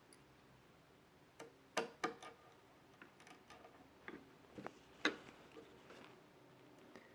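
Faint, irregular small clicks and taps of a screwdriver on the tiny retaining screw that holds an M.2 NVMe SSD to the motherboard. The clicks are spread over several seconds, with the sharpest about two seconds in and again about five seconds in.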